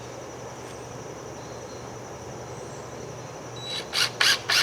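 A steady high insect drone runs throughout. Near the end come three short, harsh bursts in quick succession, about a quarter second apart, from a tool or material being worked.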